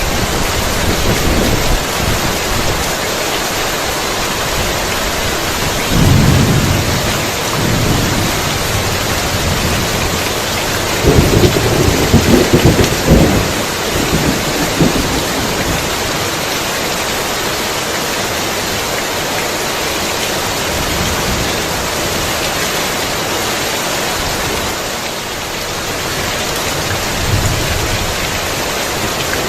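Heavy rain pouring steadily, with rolls of thunder rumbling about six seconds in and again, louder and longer, from about eleven to fifteen seconds in.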